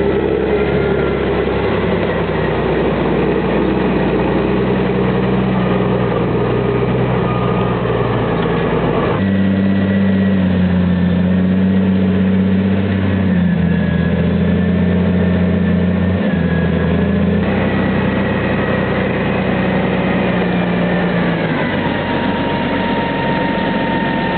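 Valtra T131 forestry tractor's diesel engine running steadily with small rises and falls in pitch. Its sound changes abruptly twice, about nine and seventeen seconds in.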